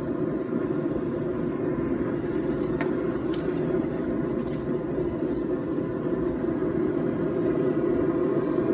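Steady low roar of a running forge, unchanged throughout, with a few faint clicks about three seconds in.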